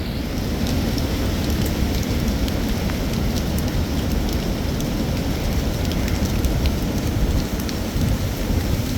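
Heavy winter-storm precipitation pelting down, a dense steady hiss full of small ticks from the hits, over a continuous low rumble.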